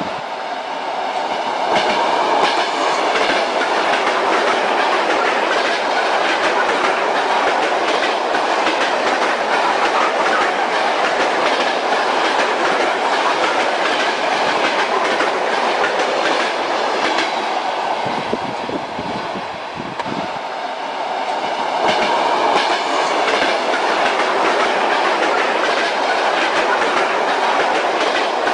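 Moving train: a steady rumble with the clickety-clack of wheels knocking over rail joints. The sound eases briefly about two-thirds of the way through, then swells back up.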